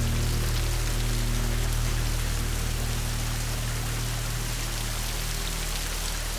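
Steady rain falling, with low held music notes sounding underneath that fade away toward the end.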